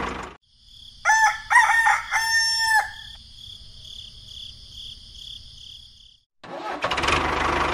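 A rooster crows once: a few short rising notes, then a long held final note. A faint, steady, pulsing high chirping runs behind it, and a small motor starts running near the end.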